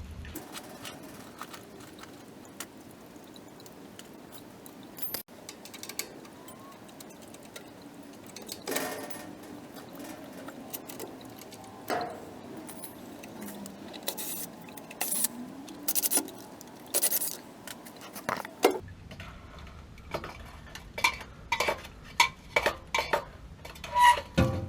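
Small metal parts and tools clinking and knocking as they are handled. There are scattered knocks early on, and a quick run of ringing clinks from about 19 seconds in.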